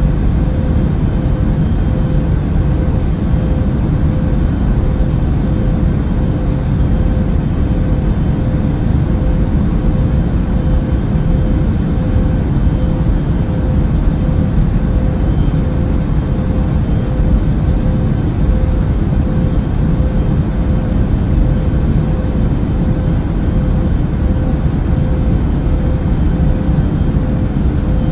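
Steady airliner cabin drone in cruise, a deep even rumble of engine and airflow noise with a faint steady hum on top, unchanging throughout.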